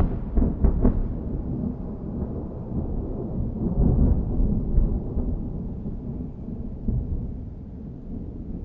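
Thunder rumbling, with a few sharp cracks in the first second. It swells again about four seconds in, then slowly dies away.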